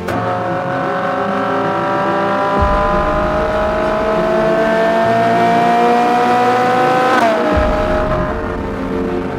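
Ferrari 458 Spider's 4.5-litre V8 pulling under acceleration, its pitch climbing steadily, then dropping sharply with a gear upshift about seven seconds in before it pulls on again.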